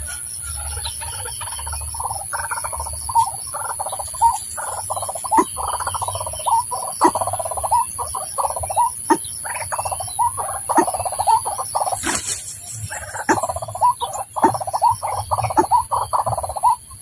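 White-breasted waterhen calling, a long near-unbroken run of harsh, croaking notes.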